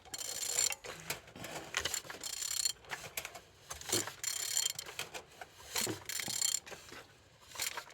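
A ratchet wrench turns the crankshaft of a Renault K9K 1.5 dCi diesel engine over by hand, in repeated clicking strokes about once a second. The engine turns freely, a sign that it is not seized.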